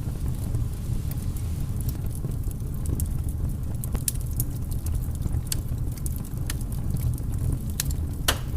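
Wood fire burning, with irregular sharp crackles and pops over a steady low rumble; one louder pop near the end.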